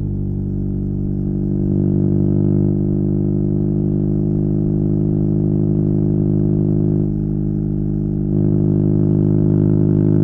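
BMW R nineT's air/oil-cooled boxer twin running through a Competition Werkes slip-on exhaust at a steady cruise, its pitch holding level. It gets a little louder about two seconds in, eases off briefly around seven seconds, then comes back up.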